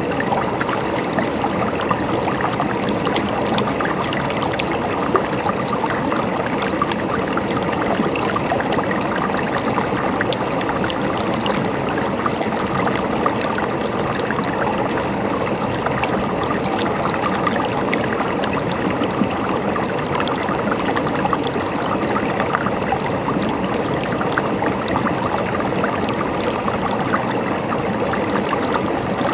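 Running water flowing and trickling steadily, with a continuous babbling texture.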